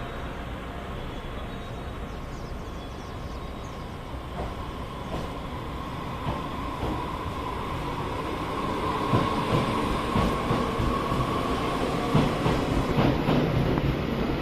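Passenger train running on the rails and growing gradually louder. Wheels click over the rail joints in a rhythm that strengthens toward the end, over a steady whine that comes in about halfway.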